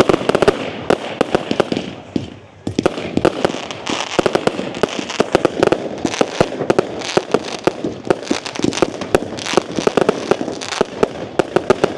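Fireworks going off in a dense, rapid stream of sharp bangs and crackles, with a short lull about two seconds in before the barrage picks up again.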